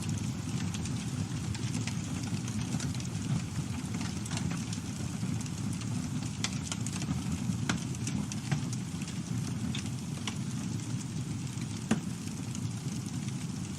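Campfire burning with a steady low rush of flames and frequent sharp crackles and pops from the wood, one louder pop near the end.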